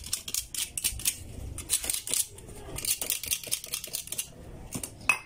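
A metal tool scraping the inside of a starter motor's small metal end cover to clean it: runs of quick, rasping strokes with a short pause between them, and a sharp click near the end.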